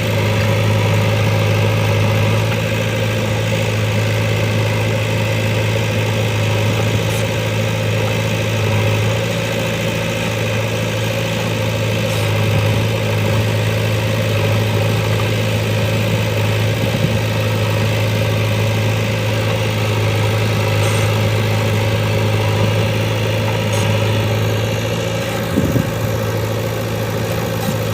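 Heavy diesel engine running steadily at idle, a constant low drone with no revving.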